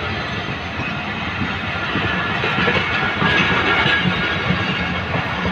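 Pakistan Railways passenger coaches rolling past close by: a steady rumble and rattle of wheels on the rails with clickety-clack, growing louder about two seconds in.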